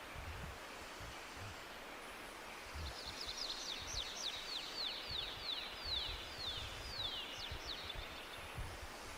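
A songbird singing a series of quick, down-slurred high whistles that start fast about three seconds in and slow and space out over about five seconds, over a steady background hiss of forest ambience.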